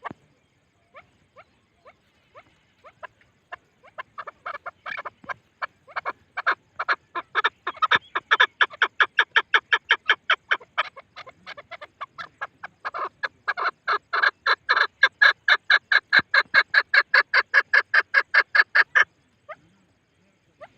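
Chukar partridge calling: a series of short clucking notes that starts slow and speeds up into a fast, even chatter of several notes a second, eases briefly about halfway, builds again and stops abruptly near the end.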